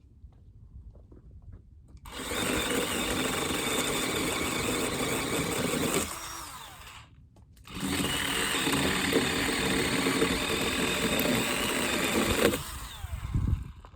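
DeWalt cordless electric saw running under load as it cuts wood, in two steady runs of about four seconds each with a short pause between. A few low knocks follow near the end.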